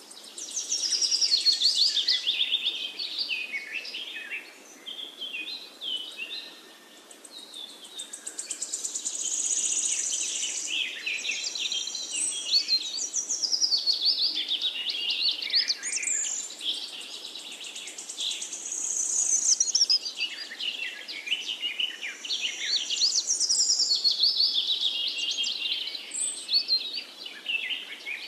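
Many small birds chirping and twittering, their calls overlapping almost without a break, with a quieter spell about six seconds in.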